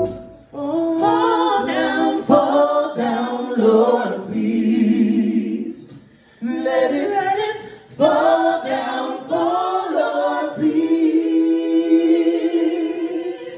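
A cappella choir singing a slow gospel worship song in two long phrases of sustained chords, with a brief breath between them about six seconds in.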